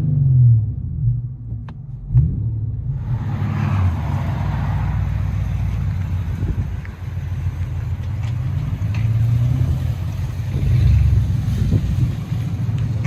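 Exhaust of a 2011 Infiniti M37's 3.7 L V6 with the rear mufflers deleted and the factory resonators kept, running with a deep rumble. A rev falls away at the start, and the engine then settles into a steady drone with small swells. A steady hiss joins about three seconds in.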